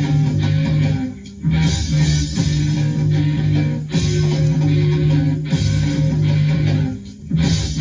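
Hard rock band playing an instrumental riff on electric guitars, bass and drum kit, recorded lo-fi at a rehearsal. The riff breaks off briefly twice, about a second in and near the end.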